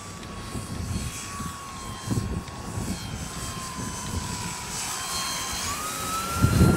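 Remote-control model Cessna 182 flying, its motor and propeller giving a steady whine whose pitch sags slowly, then rises near the end as the throttle is opened. Gusting wind buffets the microphone and swells loudly just before the end.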